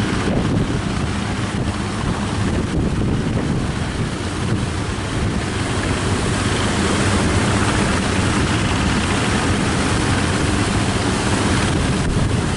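Strong wind buffeting the microphone over breaking surf, with a boat engine running steadily underneath.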